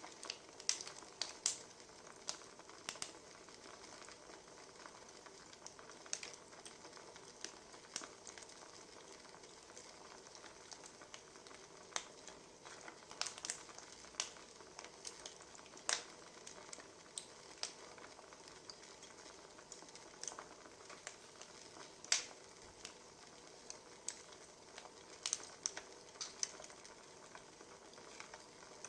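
Wood fire crackling: a steady soft hiss with irregular sharp pops and snaps.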